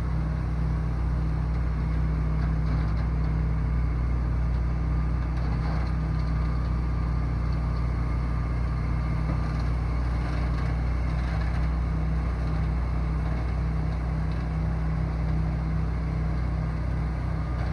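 Box truck engine running with a steady low drone that holds an even level throughout.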